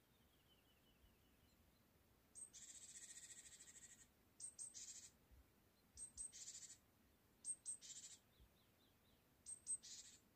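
A small songbird singing in conifer woodland: a high-pitched phrase repeated about five times, each a couple of very high, sharp notes followed by a buzzy trill, with a few faint softer notes between.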